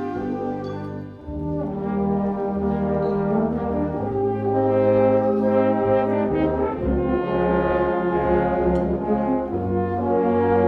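Wind band playing a concert piece, with full brass (horns, trombones, trumpets) over a low bass line. It thins out briefly about a second in, then comes back fuller and louder.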